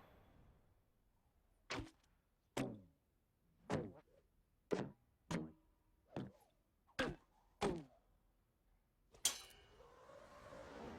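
A series of eight sharp knocks, each trailing a short falling tone and coming less than a second or so apart, then a louder crash about nine seconds in: a cartoon sound effect made as a deliberate noise to draw someone's attention away.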